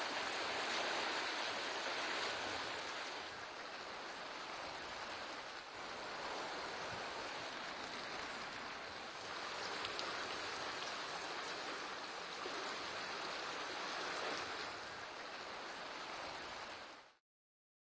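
Steady rushing of water, an even hiss that swells and eases a little, cutting off abruptly near the end.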